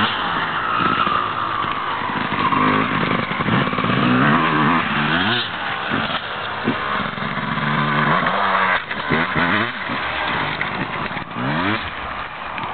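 Motocross bike engines revving, the pitch rising and falling again and again as the bikes accelerate and ease off.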